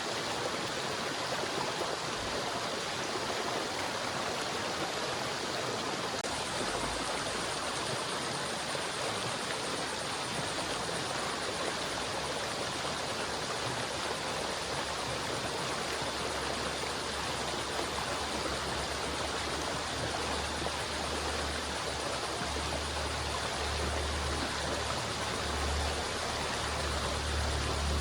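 River water flowing and rushing over rocks in a steady, even wash of sound. A low rumble comes in about halfway through and grows stronger toward the end.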